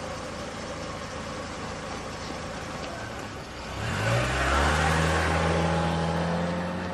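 A motor vehicle engine running. About four seconds in it revs up with a rising pitch, then holds a louder, steady note.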